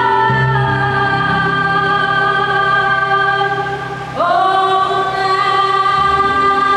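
Children's choir singing a Christmas carol in long held notes: one chord sustained for about four seconds, then a new note taken up about four seconds in and held.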